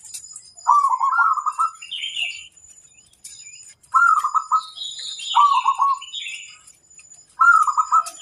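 Zebra dove (perkutut) singing: four short, rapid stuttering coo phrases about one to three seconds apart. Higher, thinner chirps from another bird come in between.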